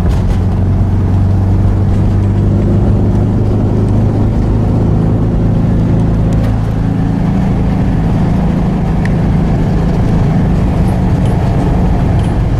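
A car driving at a steady speed: a continuous low engine hum with road noise.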